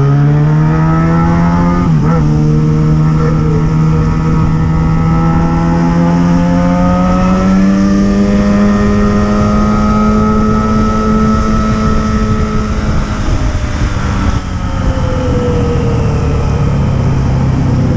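Yamaha XJ6 motorcycle's 600 cc inline-four engine and exhaust running under load while riding. The engine note climbs slowly for several seconds, then falls away after about two thirds as the throttle eases, with a brief dip, and holds lower near the end.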